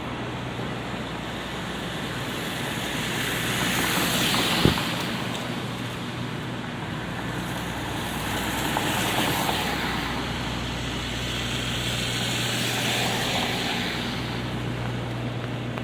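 Cars passing on a wet city street in light rain: tyre hiss swells up and fades three times over a steady background hiss. A single sharp knock comes about five seconds in.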